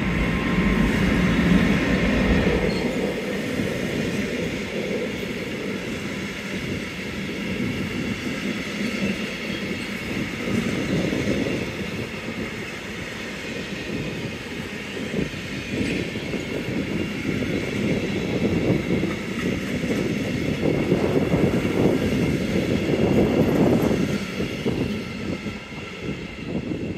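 Freight train of covered sliding-wall bogie wagons rolling past at close range, a steady rumble and rattle of wheels on rail. It dies away near the end as the last wagon goes by.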